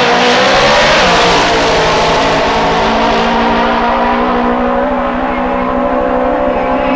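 Funny bike drag racing motorcycle engine running loud at full power. From about three seconds in, its bright high rasp fades and a steady lower engine note is left.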